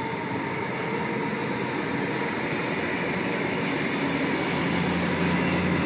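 Sydney Trains Tangara electric train running past a station platform: a steady rumble of wheels on rail that slowly grows louder, with a low electric motor hum coming in near the end.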